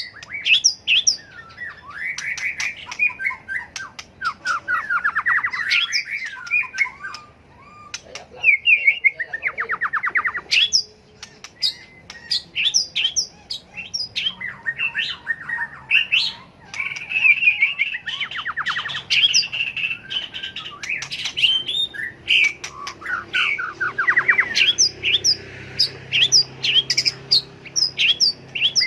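White-rumped shama singing its competitive fighting song: a long, varied stream of whistled phrases, rapid trills and sharp clicking notes, with hardly a pause.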